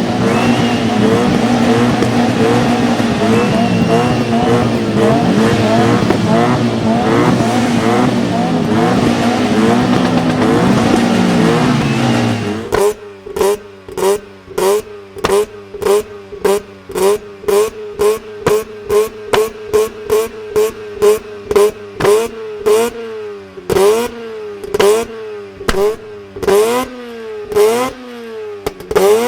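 Car engine revved hard and held high for about twelve seconds, its pitch wavering up and down, then a long run of quick throttle blips, about two a second, each rising and falling sharply in pitch.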